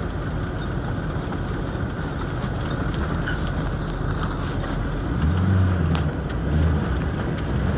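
A motor vehicle's engine running with a steady rushing noise, its low hum swelling a few times in the second half.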